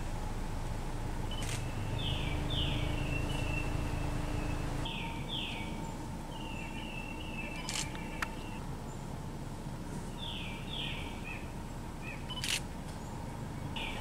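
A songbird repeating a short phrase of two quick falling notes and a brief chatter, about four times, over a steady low outdoor rumble. A couple of sharp clicks from the camera being handled stand out, one about halfway through and one near the end.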